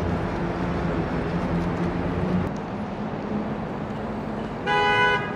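City street traffic with a vehicle engine running, then a short vehicle horn honk of about half a second near the end.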